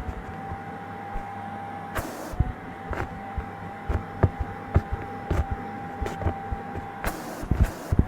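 Vacuum cleaner running with a steady motor whine while grit and dirt crackle and click through the nozzle and hose, with brief rushes of air about two seconds in and again about seven seconds in.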